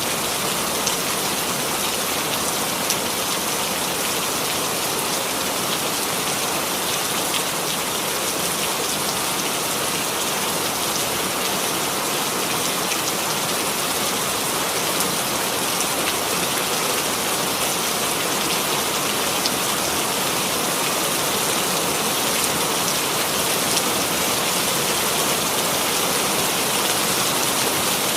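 Steady rainfall, an even hiss of rain with fine drops pattering on a surface and no thunder.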